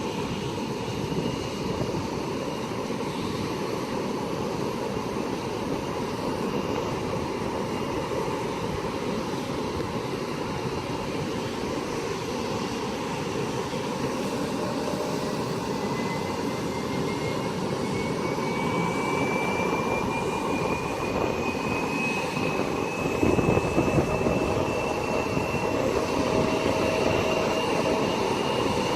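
Jet airliner engines running, a steady rush with a high whine that rises slowly in pitch and grows louder over the second half, joined by a lower tone near the end.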